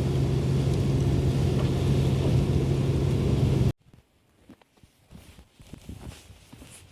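Steady vehicle cabin noise, the engine's low hum with tyres running on a slushy snow-covered road, which cuts off abruptly about three and a half seconds in. Then quiet, with faint scattered soft crunches, like footsteps in deep snow.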